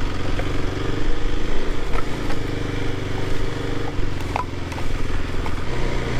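Kawasaki KLX300 dual-sport motorcycle's single-cylinder engine running at low speed while being ridden, its pitch shifting a little and dropping near the end, with a few small clicks and ticks.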